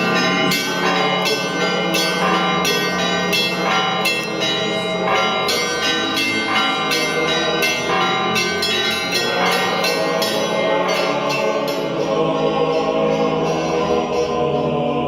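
Church bells struck in a quick, repeated peal with long ringing overtones, blending into choral singing near the end.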